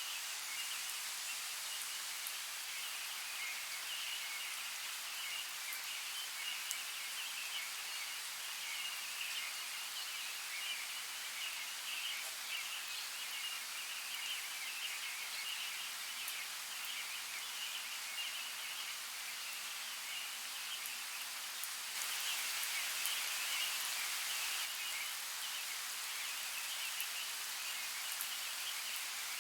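Forest ambience: a steady, even water-like hiss with a dense, flickering high-pitched chatter layered over it. It grows a little louder for a couple of seconds about three-quarters of the way through.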